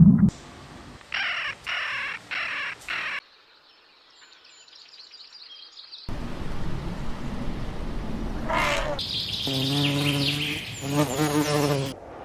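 Several short animal-sound clips cut together: a run of four brief bird-like chirps, a quiet stretch with faint high chirping, then a different animal giving a falling call followed by a string of repeated pitched calls.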